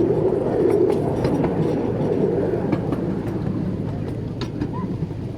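Miniature railway train running along its track: a steady rumble of wheels on rail with scattered clicks and knocks.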